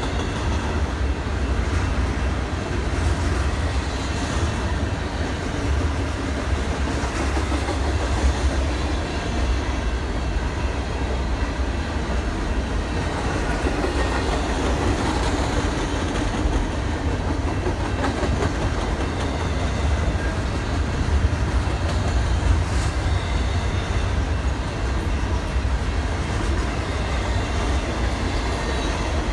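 Train running on the rails: a steady rumble with faint, spaced clicks of wheels over the track.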